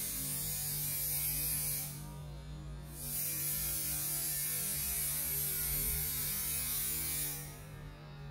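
Steady electrical hum with a long stretch of high hiss over it; the hiss stops for about a second near the start and fades out again near the end.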